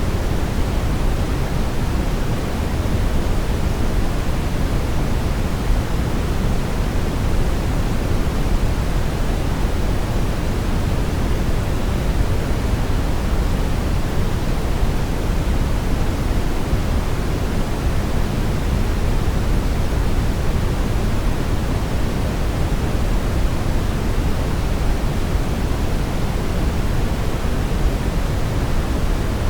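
Brown noise: a steady, unchanging hiss-rumble weighted heavily toward the low end.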